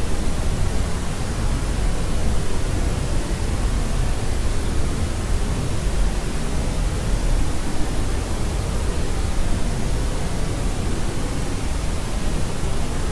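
Steady white noise, an even hiss with no breaks or changes, heaviest in the low end.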